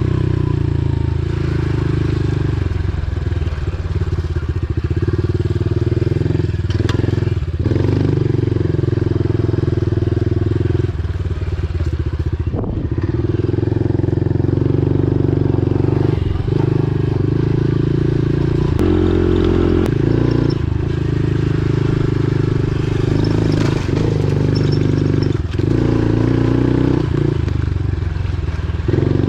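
Pit bike engine running as the bike is ridden, its note shifting with the throttle, with a few brief dips.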